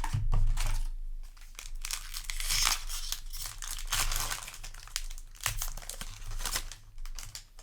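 Foil trading-card booster pack wrapper crinkling and rustling as it is handled, with some tearing, in irregular bursts of crackle.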